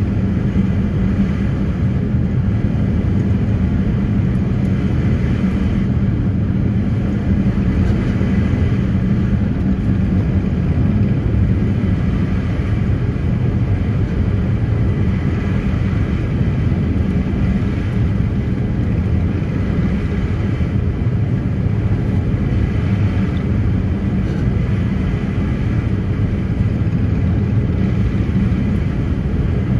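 Passenger ferry's engines running steadily under way: an even low drone and rumble that holds constant.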